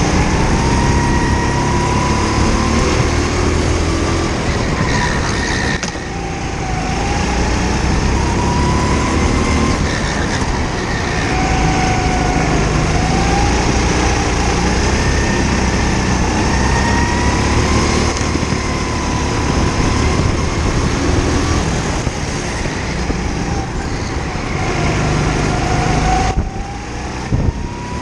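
Go-kart engine heard onboard, running hard and revving up and down over and over as the kart accelerates and lifts through corners, with brief drops in revs about six seconds in and again near the end.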